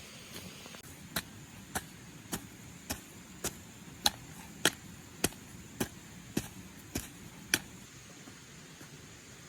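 A tool striking something hard twelve times in a steady rhythm, a little under two strikes a second, each one sharp and short. The strikes stop about three-quarters of the way through.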